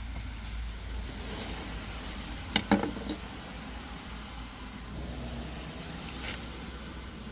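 Steady low rumble of passing road traffic, with a short cluster of knocks and clicks about two and a half seconds in and a faint click near the end.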